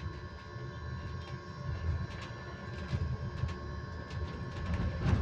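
Electric bus heard from inside, a steady whine held at one constant pitch over low rumble and scattered short rattles from the moving bus.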